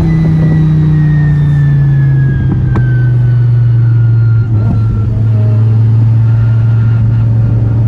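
Car engine running under way at a steady, loud drone, its revs climbing at the start and then slowly easing down.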